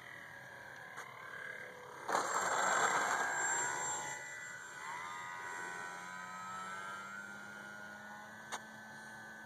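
Electric motor and propeller of an Alpha 450 Sport RC airplane whining in flight, its pitch climbing from about five seconds in as throttle comes up. A loud rush of noise about two seconds in is the loudest part.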